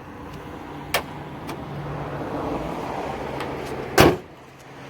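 A sharp click about a second in, then a car's bonnet slammed shut with one loud thud near the end.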